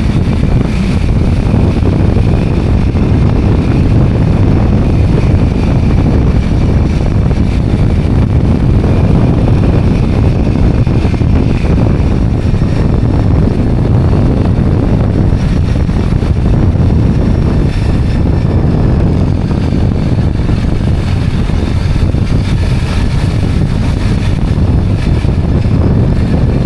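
Steady wind rush buffeting the microphone while riding a two-wheeler, with its engine running underneath.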